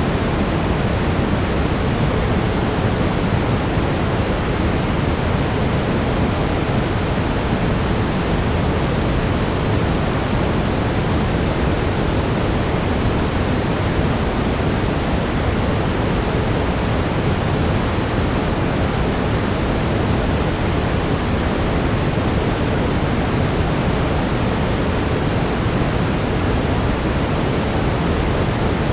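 Steady brown noise: an even, unchanging rushing hiss weighted toward the low end, with a faint steady tone beneath it from the 432 Hz tuning.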